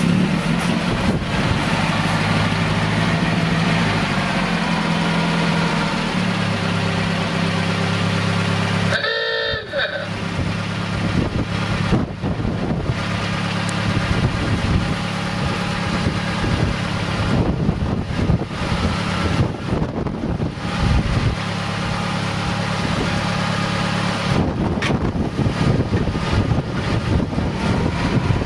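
Engine of a 1931 Swift Crusader catching after being hand-started at the front of the car, then idling steadily. About nine seconds in a brief horn-like toot sounds over it.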